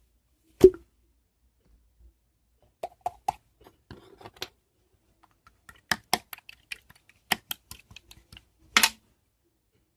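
Irregular sharp clicks and taps in short clusters, with a heavier knock about half a second in and a brief scraping or rustling burst near the end.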